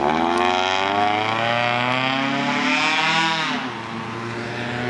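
Car engine accelerating hard, its pitch climbing steadily for about three and a half seconds before the driver lifts off and it fades, over a steady low engine hum.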